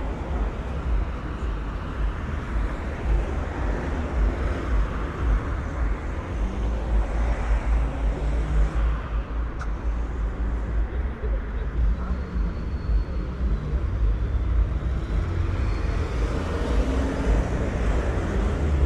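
City street ambience: road traffic passing, with a steady low rumble and a continuous wash of tyre and engine noise.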